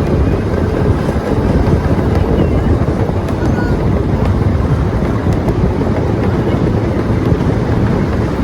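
Steady low rumble of a train, heard from on board.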